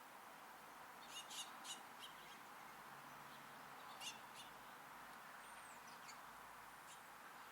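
Small songbirds giving faint, short high chirps: a quick run of four or five about a second in, a couple more around four seconds, and a thin, high, falling whistle just past the middle, over a steady background hiss.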